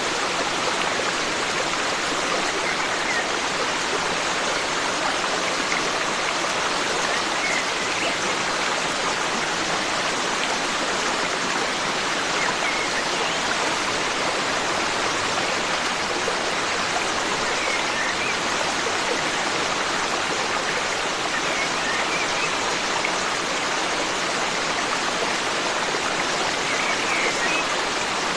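Forest stream flowing steadily, with faint short bird chirps every few seconds.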